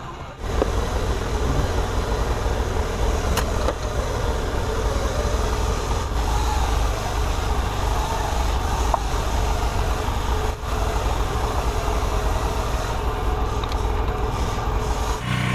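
A machine running with a steady low rumble, starting abruptly about half a second in and changing to a steadier hum near the end.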